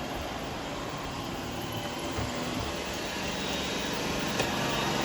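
Robot vacuum cleaners running, a steady whirring hum that grows a little louder toward the end.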